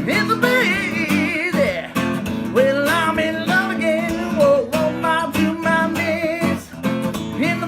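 Song with acoustic guitar strumming under a voice singing long, wavering held notes.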